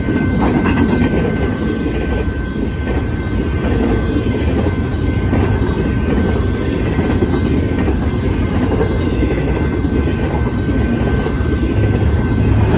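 Double-stack intermodal container cars rolling past at speed: a loud, steady rumble and clatter of steel wheels on the rails, with a thin, steady high-pitched tone over it.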